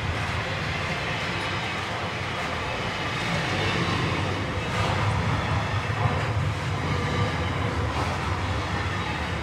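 Container wagons of an intermodal freight train rolling past close by: a steady rumble of steel wheels on the rails, with a few faint clacks as wheels pass over rail joints.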